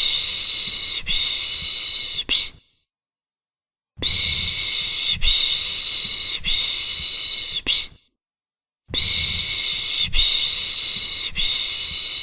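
A person shushing to soothe a baby, the Turkish 'pış pış' hush: long hissing 'shhh' sounds of about four seconds, each broken by brief catches about once a second, with about a second of silence between them, repeating evenly as a loop.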